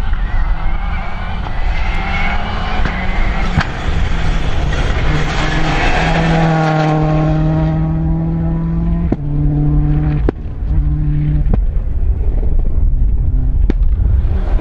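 Rally car approaching flat out and passing, its engine note sliding down in pitch as it goes by. It then holds the note in bursts broken by three sharp cracks at gear changes, and fades away near the end.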